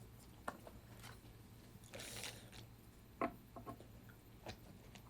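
Faint eating sounds: soft chewing with a few light clicks, the sharpest a little after three seconds in.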